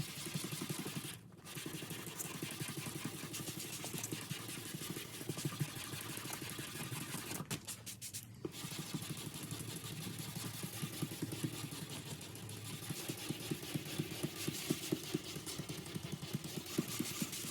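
Power sander, likely a dual-action (DA) orbital sander, running steadily on primer over an aluminium body panel, with a fast even buzz. It stops briefly twice: once about a second in and again around the middle.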